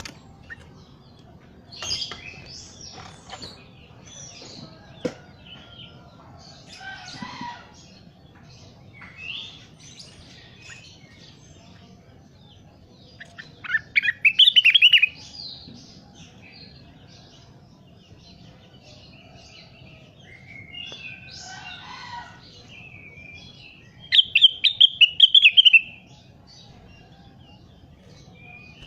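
Rengganis bird singing actively: scattered short chirps and calls, broken twice by loud bursts of rapid trilled notes, about 14 and 24 seconds in. A faint steady low hum runs underneath.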